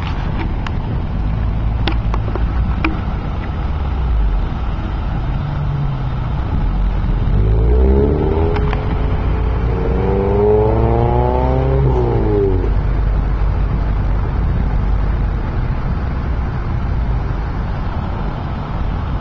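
Car engine accelerating: its pitch climbs for a few seconds from about the middle, then drops away, over steady road and wind rumble. A few sharp clicks near the start.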